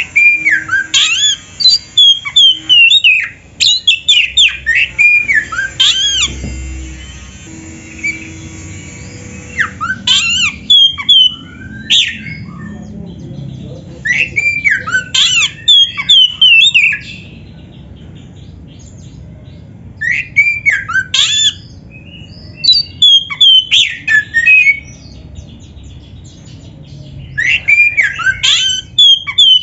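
Oriental magpie-robin (kacer) singing: loud bursts of rapid, sweeping whistled notes, broken by pauses of a few seconds.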